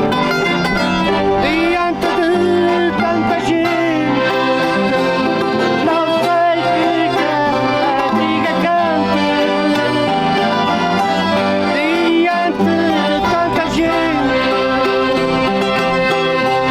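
Accordion and string instruments playing a traditional folk tune together, with voices singing along.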